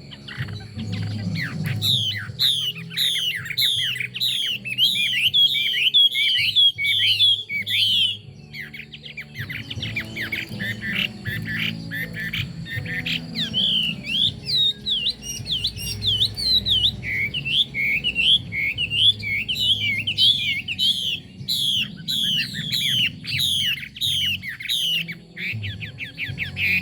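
Chinese hwamei singing: long runs of rapid, repeated down-slurred notes, breaking off briefly about eight seconds in and then starting up again.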